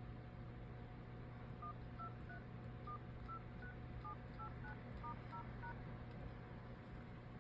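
Samsung Galaxy A12 phone dialer keypad tones: about a dozen short two-note beeps, roughly three a second, beginning about one and a half seconds in, one beep per key tap. The keypad is being tapped to test the touch response of the newly replaced screen.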